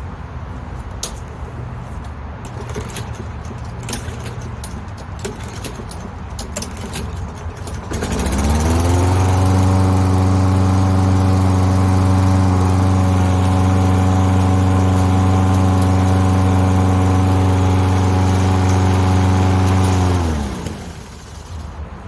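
Scattered clicks and rattles, then a walk-behind lawn mower engine starts about eight seconds in. It rises to a steady run, holds for about eleven seconds, then is shut off and winds down. This is a test run showing that the engine runs.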